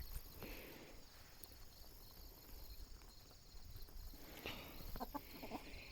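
Faint outdoor ambience of insects chirping steadily, with a few soft ticks and rustles near the end.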